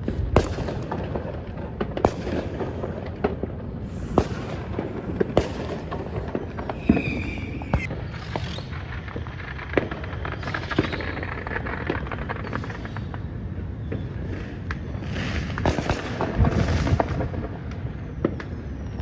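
Fireworks and firecrackers going off, sharp bangs and pops every second or so over a dense crackling haze, with a short falling whistle about seven seconds in.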